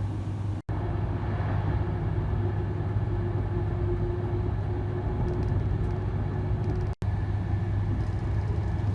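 Inside an inter-city train coach while it runs at speed: a steady low rumble with a faint constant hum, cut off by two brief gaps, about a second in and near the end.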